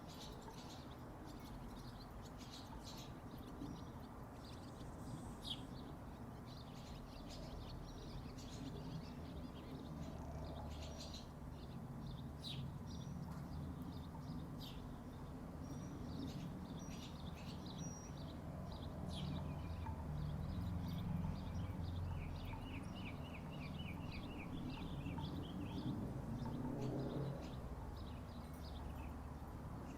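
Small birds chirping and calling, with a fast trill of evenly repeated notes about two-thirds of the way through, over a steady low rumble.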